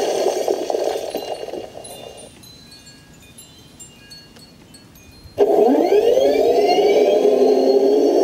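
RC tank's electric drive motors and gearbox whirring, winding down and stopping about two seconds in. After a few seconds of near-quiet they start again suddenly with a rising whine that levels off into a steady run.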